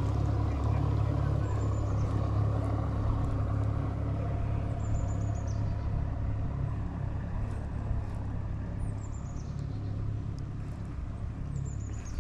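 Steady low hum of an engine running, with a bird's short high calls sliding downward about five times.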